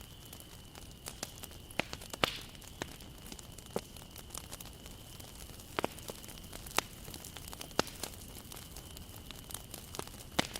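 Wood bonfire burning, with irregular sharp crackles and pops of the burning wood over a low steady hiss.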